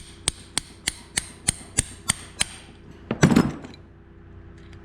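Small hammer tapping a punch to drive the wrist pin out of a Stihl MS250 chainsaw piston: about nine quick, sharp metallic taps, roughly three a second, stopping about two and a half seconds in. A brief, louder vocal sound follows a second later.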